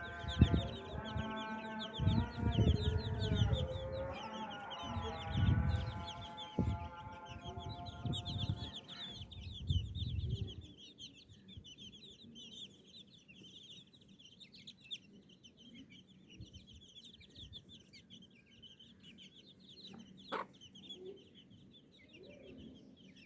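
Newly hatched chicks peeping constantly in rapid short high notes. For the first nine seconds or so a louder, lower steady-pitched drone and a few low thumps sound with them, then stop, leaving the peeping alone.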